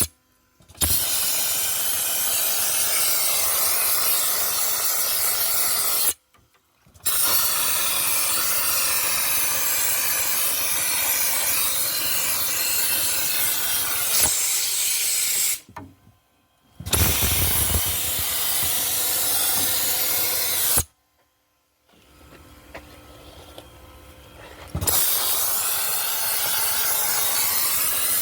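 Dry ice blasting gun spraying compressed air and dry ice pellets in a loud, steady hiss, stopping and restarting several times as the trigger is let go, with the longest pause about three quarters of the way through.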